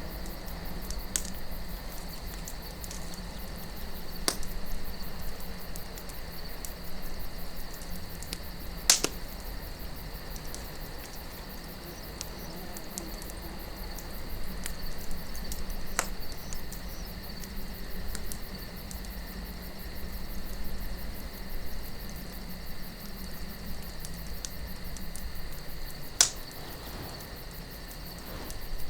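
Campfire crackling, with a few sharp wood pops (the loudest about nine seconds in and near the end), over soft desert wind that swells and eases. A steady cricket chirring runs underneath.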